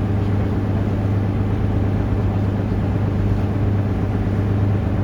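Taxi boat's engine running steadily at an even pitch, a constant low drone heard on board.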